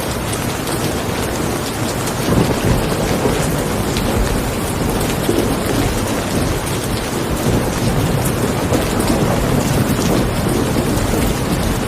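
Steady rain with many small drop ticks, and a low rumble of thunder that swells in about two seconds in and rolls on under the rain.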